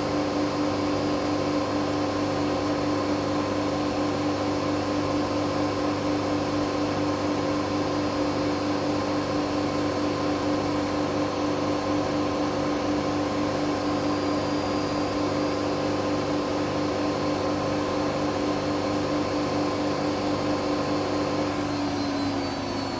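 Hoover Dynamic Next washing machine at full spin (1600 rpm), a steady motor and drum whine over a low hum. Near the end the whine starts to fall in pitch and the sound eases as the drum begins to slow from top speed.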